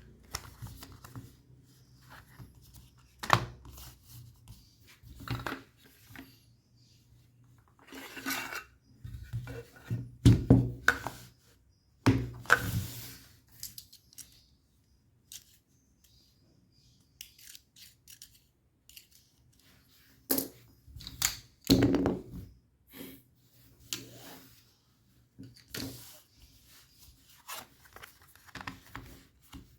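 Hands and tools handling a laptop on a work surface: scattered clicks, knocks and scrapes with quiet gaps between them. The loudest knocks come about a third of the way in and again about two thirds in.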